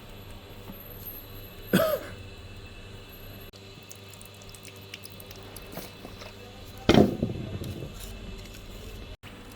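Two sharp knocks about five seconds apart, the second louder with a brief ringing tail, over a faint steady hum.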